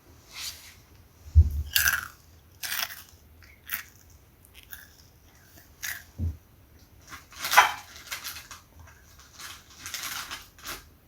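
Crunchy snack being bitten and chewed close to the microphone: irregular sharp crunches about once a second, the loudest about two-thirds of the way in. Two low thumps come about 1.5 s and 6 s in.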